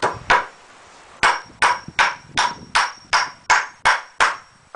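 Hammer driving a nail into pallet wood: two blows, then a steady run of about nine sharp strikes, each with a brief ring, as the joint is nailed tight.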